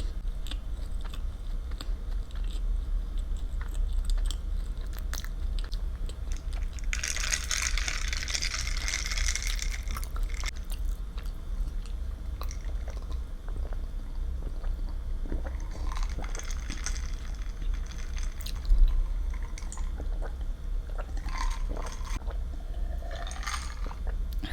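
Close-miked eating sounds: chewing and biting with small wet clicks over a steady low hum, and a louder hiss-like noise from about seven to ten seconds in.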